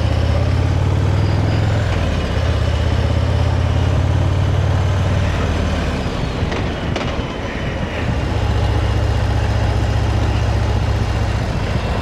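Motorcycle engine running under wind noise while riding, heard from the rider's helmet microphone. The engine's low drone breaks briefly about two seconds in, falls away for about two seconds around the middle, then comes back steady.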